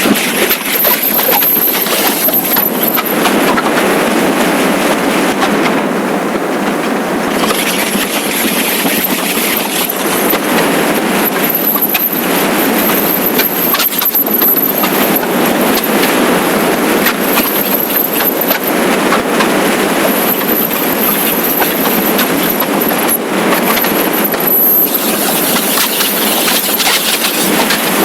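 Steady rush of wind and road noise on a motorcycle riding at speed, with wind on the microphone. A thin high whine comes and goes over it.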